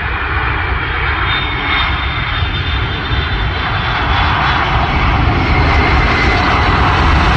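Airplane engines of an aircraft coming in to land: a steady rushing noise with faint high whining tones, slowly growing louder.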